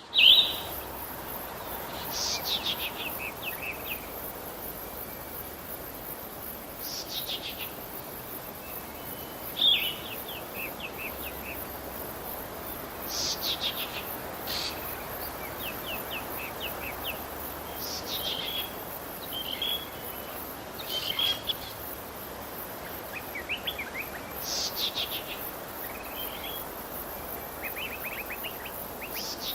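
Birds singing outdoors, a short phrase of quick high notes repeated every few seconds, over a steady background hiss.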